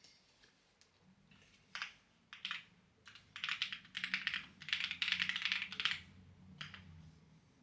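Clacky keyboard being typed on in short bursts of keystrokes, with a dense run of fast typing from about three to six seconds in.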